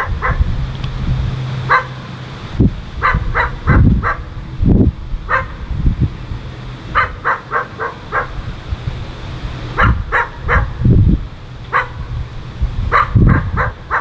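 A dog barking repeatedly in quick runs of three to five barks, with single barks between, over low rumbling and a steady low engine hum.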